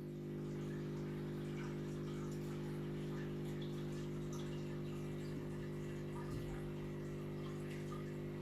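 Aquarium pump or filter motor humming steadily, with faint trickling and dripping water over it.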